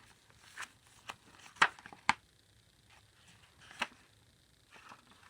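Paper and cardstock pages, tags and cards of a handmade junk journal being handled and turned: a handful of short, crisp paper rustles and flicks, the sharpest pair about one and a half to two seconds in.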